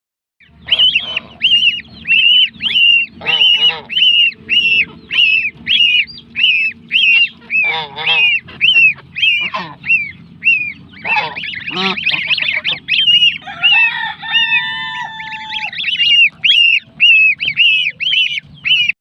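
Young fowl chicks peeping loudly and insistently, a steady run of sharp high peeps about two a second, with a few lower, rougher calls from other birds mixed in.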